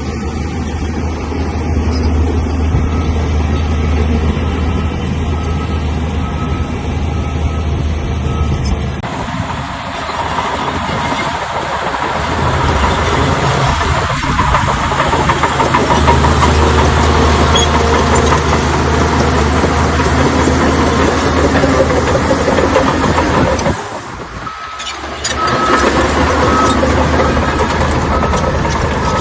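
Heavy diesel bulldozer engine running steadily with a strong low drone. The sound changes abruptly about nine seconds in and drops out briefly around twenty-four seconds.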